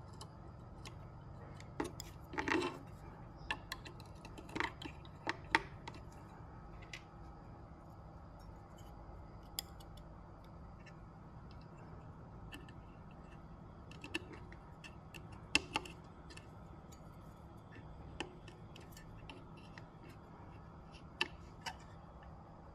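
Irregular light clicks and taps of tools and small parts being handled during electronics repair, over a steady low hum.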